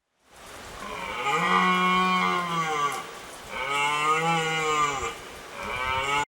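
A cow mooing: two long, steady moos and the start of a third that cuts off suddenly.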